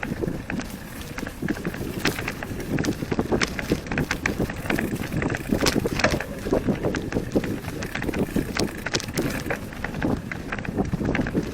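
Wind rumbling on the microphone while moving along a forest trail, with many irregular clicks and rattles.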